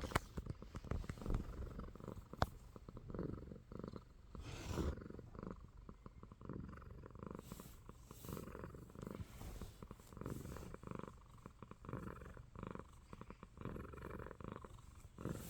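Domestic cat purring steadily, the purr swelling and fading with each breath. A sharp click about two and a half seconds in.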